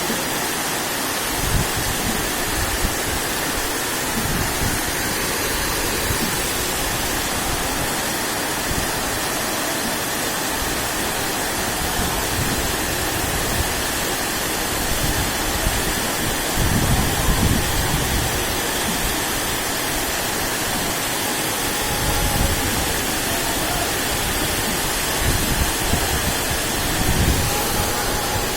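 Heavy rain pouring down as a loud, steady hiss, with low rumbles swelling now and then.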